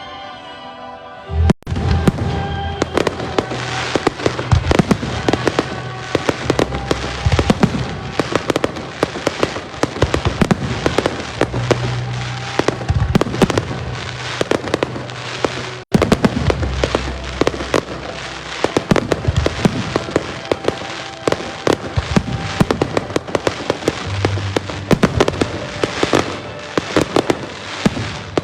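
Pyromusical fireworks display: a dense, continuous barrage of bangs and crackling bursts that starts about a second and a half in, over music played along with the show. The sound drops out for an instant about halfway through.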